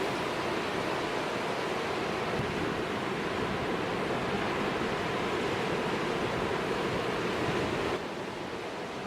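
Storm surf breaking against a rock jetty, a steady rush of heavy waves with wind. It drops suddenly to a quieter level near the end.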